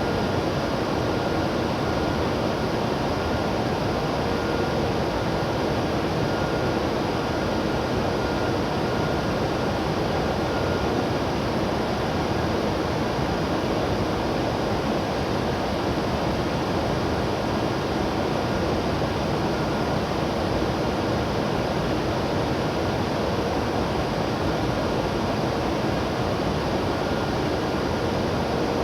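Steady hum and rush of a stationary E7 series Shinkansen train's air-conditioning and equipment cooling fans, with faint steady tones over the noise.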